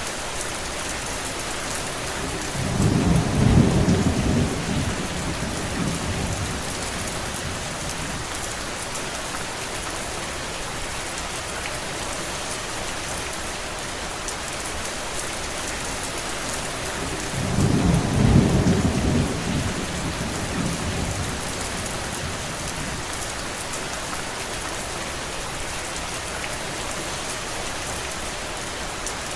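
Steady rain hissing, with two low rumbles of thunder, one about three seconds in and another about eighteen seconds in, each swelling and fading over a few seconds.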